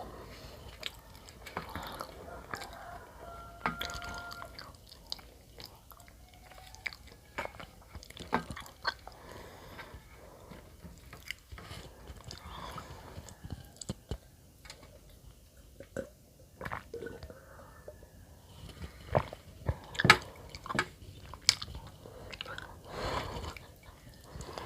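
A person eating bread close to the microphone: chewing and biting with irregular soft crunches and mouth clicks. The loudest bites come about three-quarters of the way through.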